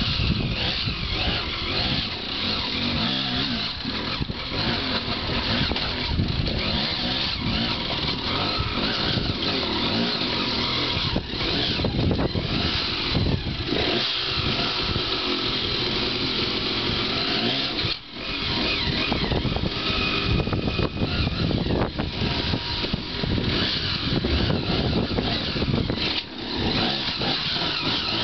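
Dirt bike engine running under constant throttle changes, revving and easing off as the bike works over rocks. The sound dips briefly twice, once about two-thirds of the way through and again near the end.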